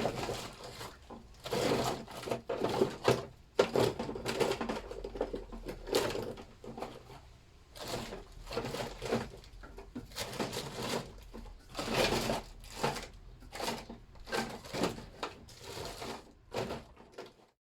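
Irregular hand-work noises: rustling, scraping and light clicks from wrapping PTFE tape on the thread of a new water drain tap and screwing the tap into the engine casting. The sounds stop suddenly just before the end.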